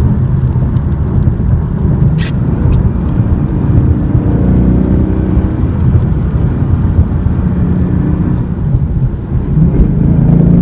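2016 Ford Mustang GT's 5.0L V8 engine and exhaust running under way, the engine note swelling and easing and climbing in pitch near the end. A short click about two seconds in.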